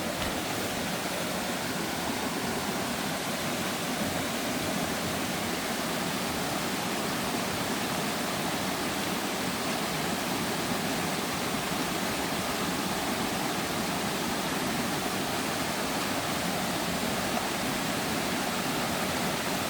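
Steady sound of a river running, an even rush of water noise with no breaks.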